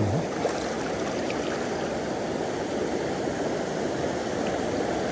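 A river's current rushing, a steady even noise with no breaks.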